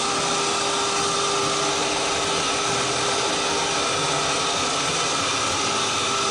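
Electric hoist motor running steadily with an even whine, lowering a heavy crated load of about 320 pounds.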